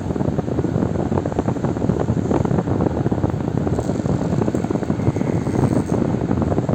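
Electric fan running steadily: a dense, even rush of air with a fast flutter from the blades, used as white noise.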